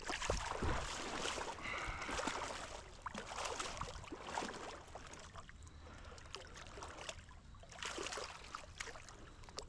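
Water splashing and sloshing in irregular bursts as a hooked fish thrashes at the surface while being brought in by hand.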